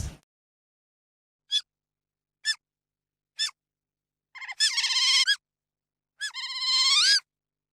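An animal calling: three short, separate chirps, then two longer warbling calls about a second each, the second ending in a rising sweep.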